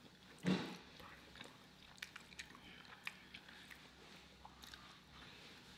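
Faint close-miked eating sounds: scattered small wet clicks of chewing and lips, with a brief low vocal sound about half a second in.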